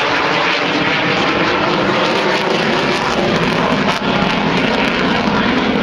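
Twin jet engines of an F-18 Hornet making a loud, steady roar during a low, fast air-show pass. The sound grows deeper and heavier after about three seconds.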